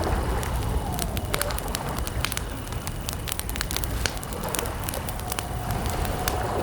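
Wood campfire crackling, with many irregular sharp pops and snaps over a low steady rumble of the burning fire. Faint steady high chirring of crickets runs underneath.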